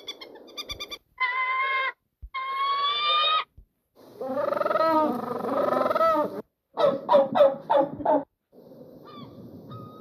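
A series of bird calls cut one after another. Quick stuttering calls open it, then two long pitched calls, a longer warbling call, and a burst of rapid calls, with fainter calls near the end.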